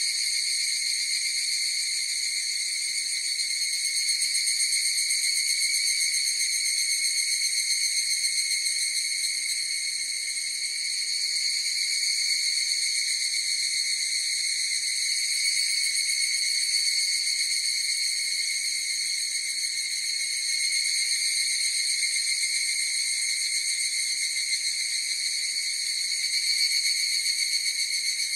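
A chorus of higurashi (evening cicadas) calling: a steady, shrill, unbroken drone that swells and eases slightly in loudness.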